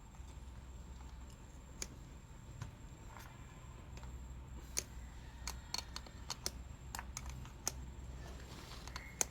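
Scattered sharp clicks and clinks of hand tools on metal while dump truck battery terminals and clamps are being worked on, over a steady low rumble.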